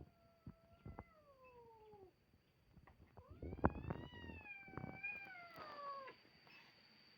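Cat yowling in a fight standoff: two long drawn-out threat yowls, the second louder, rising and then sliding down in pitch near its end, with a few short knocks between.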